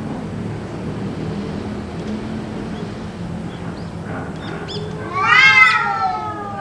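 Cat yowling: one long, drawn-out cry about five seconds in that rises in pitch and then slowly sinks, with fainter short calls just before it, over a steady low hum. The uploader suspects a cat fight.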